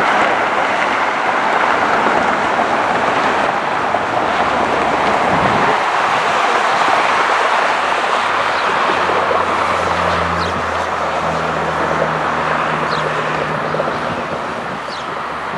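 Jet airliner engine noise: a loud, steady rush that slowly fades toward the end as the aircraft moves away.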